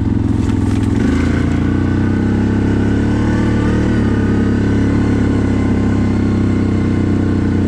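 CFMoto 1000 ATV's V-twin engine running steadily under way, its pitch shifting slightly about a second in and then holding even.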